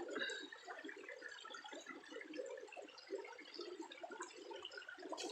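Faint, steady trickling and gurgling of water, with small scattered ticks.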